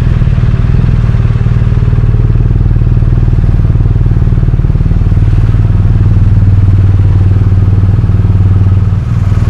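BMW R 1250 RT motorcycle's boxer-twin engine running at a steady road speed while being ridden, a loud, even rumble.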